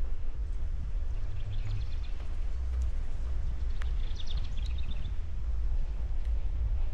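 Wind buffeting the microphone as a steady low rumble, with a songbird singing two short phrases of rapid high notes, about a second in and again about four seconds in.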